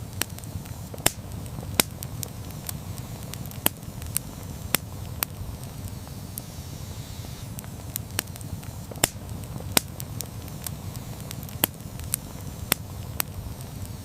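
Wood campfire burning with a steady low rumble of flames and sharp, irregular crackles and pops, several a second, some much louder than the rest.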